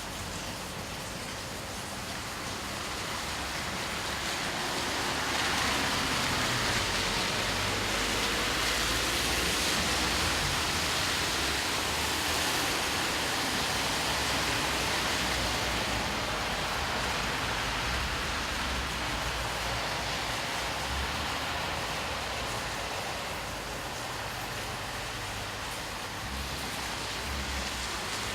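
Steady rain falling. A louder, brighter hiss swells in about five seconds in and eases off again after about ten seconds.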